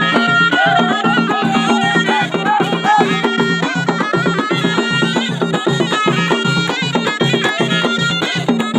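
Ghaita, the Moroccan double-reed folk shawm, playing an ornamented melody over a steady drum beat.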